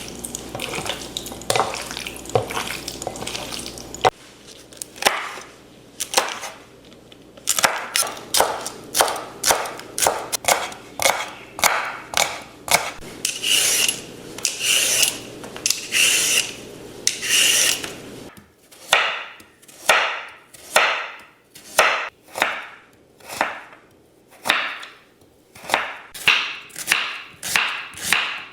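Knife cutting food on a wooden cutting board, one even stroke after another at about one to one and a half per second; the strokes change in sound about two-thirds in.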